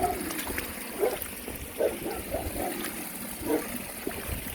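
A dog giving short barks every second or so over trickling stream water.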